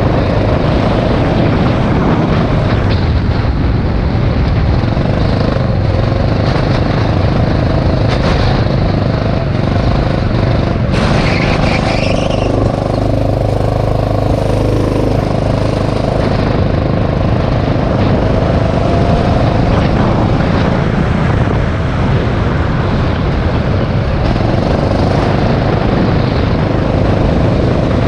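Rental go-kart engine running continuously at racing speed under a dense, steady noise. A brief brighter hiss rises over it about eleven seconds in and fades a few seconds later.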